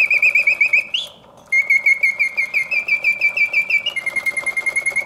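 Mechanical singing bird cage from 1950s Germany, its bellows-driven piston whistle warbling a fast trill of about nine notes a second. There is a short break about a second in, then the trill resumes and drops slightly in pitch near the end.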